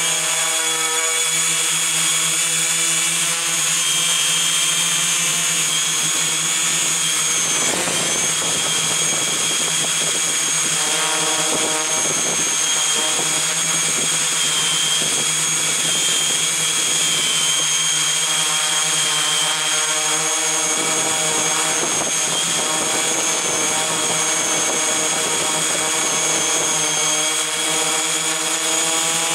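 Multirotor drone's brushless motors and propellers running, a steady high-pitched whine whose pitch wavers slightly as the motor speeds adjust, with rougher stretches about 8, 12 and 21 seconds in.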